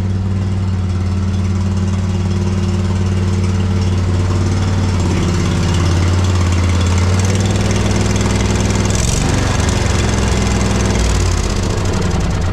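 Poulan riding mower engine running steadily under way, its note dipping briefly about nine seconds in. The owner says the engine is misfiring a little and needs a service.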